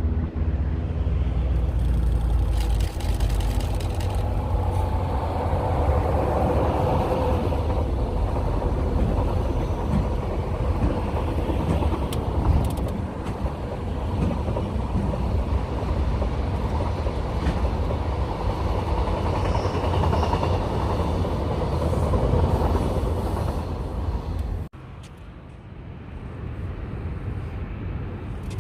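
Train passing close by: a steady, loud rumble of wheels on the rails with a faint whine above it, cutting off abruptly about 25 seconds in, after which a quieter rumble rises again.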